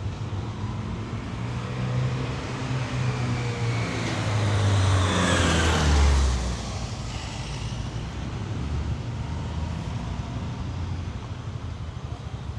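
A motor vehicle drives past close by over steady street traffic. Its engine and tyre noise build to a peak about halfway through, then fade, dropping in pitch as it goes by.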